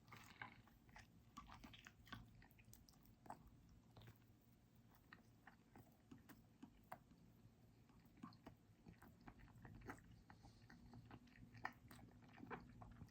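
Faint chewing: a person eating, with soft, scattered mouth clicks.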